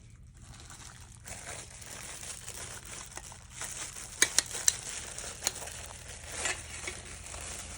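Rustling and crinkling from handling, like plastic or wiring being worked, with a few sharp clicks around the middle.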